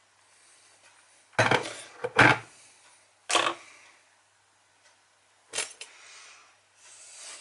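Kitchen handling clatter: four sharp knocks and clunks as crockery and utensils are set down and moved while coffee is being made. The first two are the loudest.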